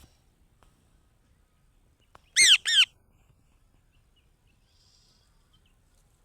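Parrot giving two loud squawks in quick succession about two and a half seconds in, each one short and harsh.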